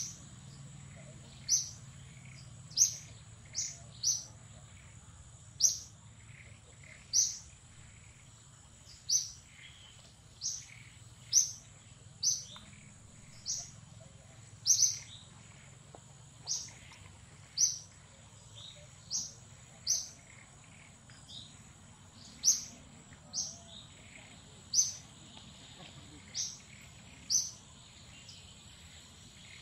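A bird calling a short, high chirp over and over, roughly once every second or so, over a steady thin high-pitched whine.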